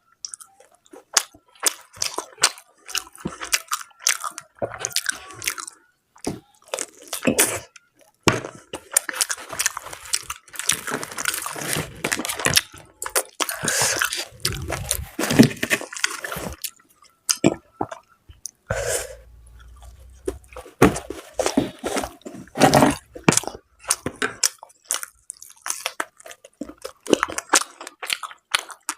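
Close-up eating sounds: wet chewing, biting and crunching of mutton curry with luchi and salad, with many short smacking clicks, loudest in a dense stretch in the middle.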